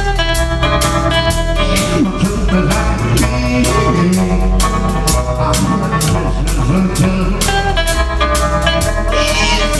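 Live rockabilly band playing: twangy electric guitar, upright bass and a steady drum beat, with a singer's voice.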